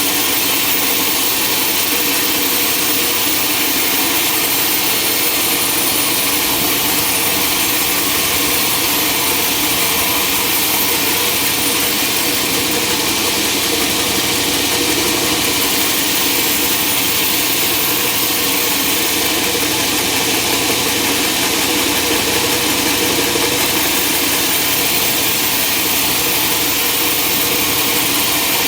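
Sawmill machinery running steadily: a dense high hiss over a steady motor hum.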